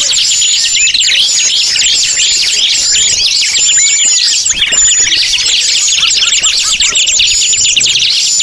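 Dense chorus of many small forest birds chirping and twittering rapidly over one another, high-pitched and unbroken at a steady level: a bird-lure (pikat) recording of mixed forest birds.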